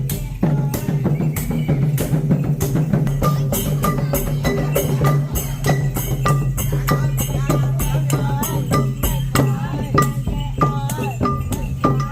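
Lively Khmer festival music: fast, dense drumming with sharp clicking and rattling strikes over a steady low drone. In the second half a wavering melody line joins in.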